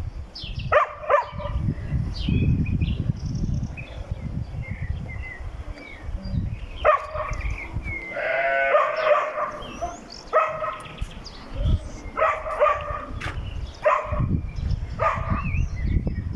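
Bleating of sheep or goats: about six calls, the longest a wavering bleat nearly two seconds long about eight seconds in. A gusty low rumble sits underneath, with a few faint high chirps.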